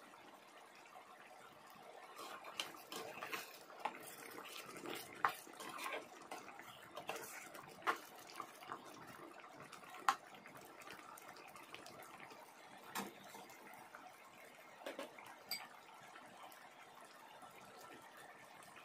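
A metal utensil clinking against a cooking pot now and then, the sharpest clinks about five, eight and ten seconds in, over a faint steady hiss.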